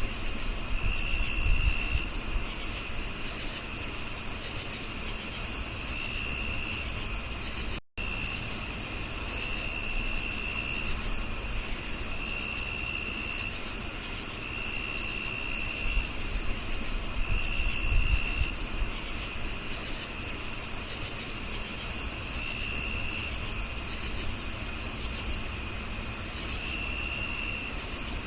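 Several crickets singing at once: a steady high trill, a regular rapid chirping, and a lower trill that comes and goes in stretches of about a second. The sound cuts out for an instant about eight seconds in.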